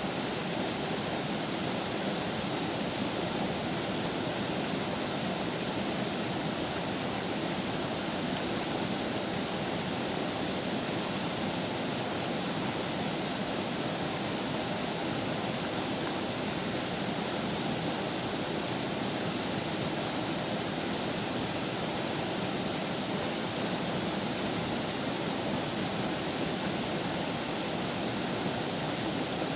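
Flowing river water: a steady, even rush with no breaks or changes.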